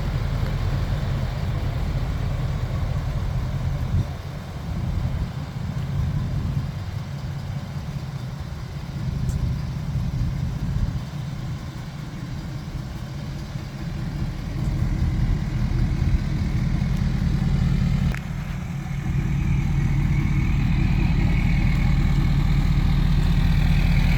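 A 2018 Ford F-250's 6.7-litre Power Stroke V8 turbodiesel idling with a steady low hum. The level dips and recovers a few times, and near the end it runs steady and slightly louder.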